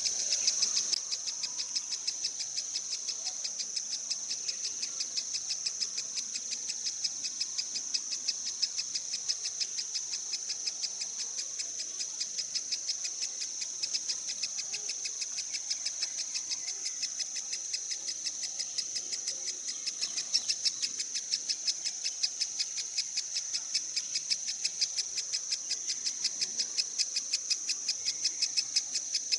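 An insect trilling: one steady, high-pitched, rapidly pulsing call that holds the same pitch and rhythm throughout.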